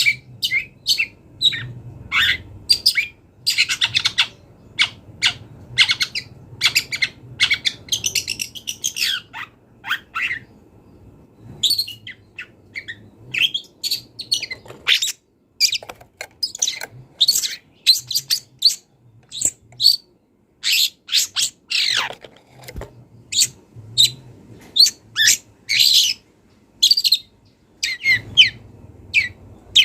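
Long-tailed shrike (cendet) singing a rapid, varied song of short chirps, whistles and trills, broken by brief pauses, with phrases mimicked from other birds.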